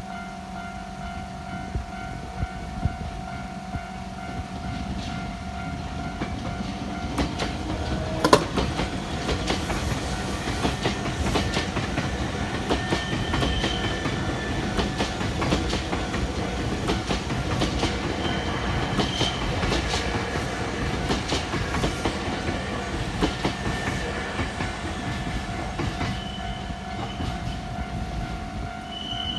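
Nankai electric train passing over a level crossing: wheels clattering over the rail joints, with a sharp knock about eight seconds in and short high wheel squeals. The crossing's warning signal sounds steadily before the train arrives and is heard again near the end.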